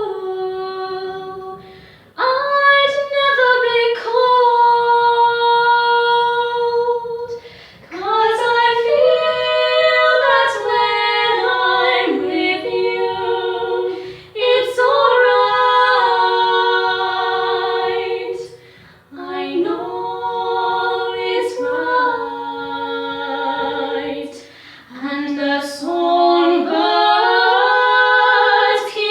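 Female voices singing a cappella in close harmony, held notes in phrases broken by short breaths.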